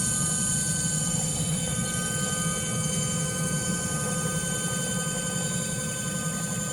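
Brushless direct-drive hub motor running steadily: a low hum with several constant high whining tones, easing slightly toward the end.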